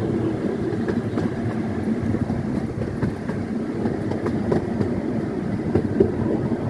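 Scenic railway train rolling along the track: a steady low rumble from the cars, with faint scattered clicks from the wheels.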